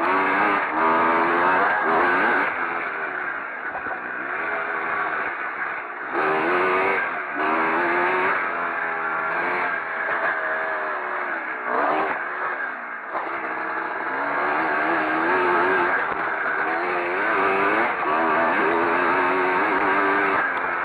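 Pre-1965 classic motocross motorcycles racing. Their engine notes climb and drop repeatedly as the riders open and shut the throttle, and they swell louder several times as bikes pass.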